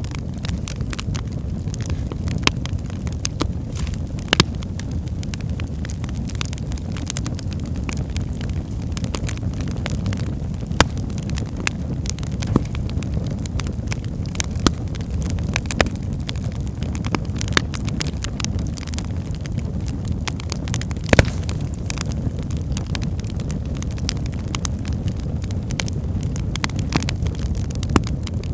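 Wood fire burning in a fireplace: a steady low rumble of flames with frequent irregular crackles and pops of the logs, one sharper pop about 21 seconds in.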